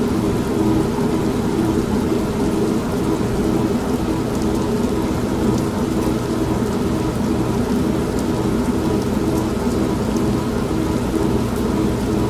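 An old washing machine running with a steady hum, mixed with steady rain. The level stays even throughout.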